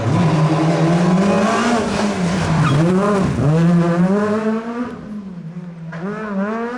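Rally car's engine pulling hard at high revs, its pitch dipping and climbing again on throttle lifts and gear changes. The car passes and fades out about five seconds in, and another engine's note begins rising near the end.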